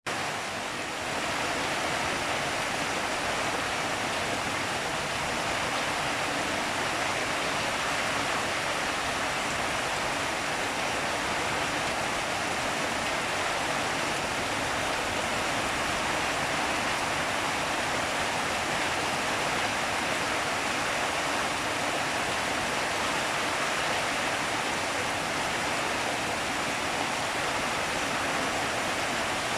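Steady rain falling, an even, dense hiss that fades in over the first second and then holds constant.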